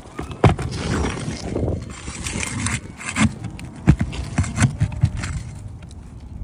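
Roofing shingle being pried off and its nails worked loose: scraping of a tool under the shingle, with several sharp knocks and taps.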